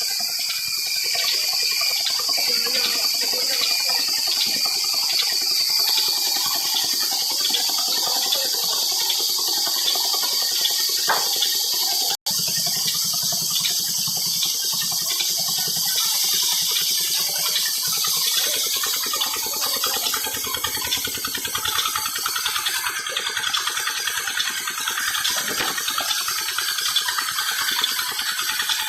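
Steady rush of pouring, splashing water.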